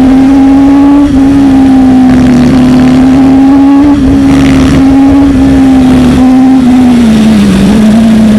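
Sport motorcycle engine and exhaust running hard at steady high revs, the note dipping a little a few times and easing slightly lower near the end.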